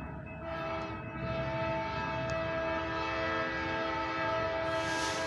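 Amtrak locomotive's Nathan K5LA five-chime air horn sounding a long held chord, dipping briefly about half a second in, over the low rumble of the train. A short burst of hiss comes near the end.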